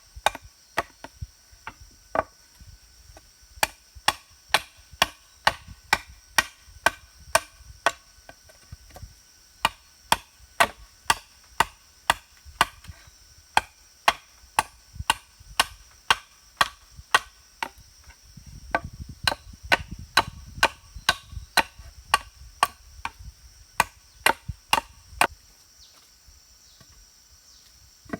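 Repeated chopping into wood, sharp blade strikes at about two a second, stopping a couple of seconds before the end. Insects buzz steadily underneath.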